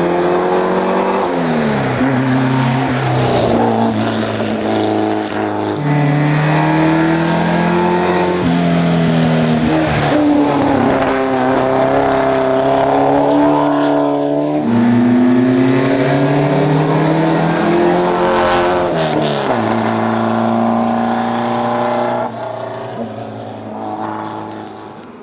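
Porsche rally car engine accelerating hard on a hill climb, its pitch rising through each gear and dropping at each upshift, about five shifts, then fading away near the end as the car moves off.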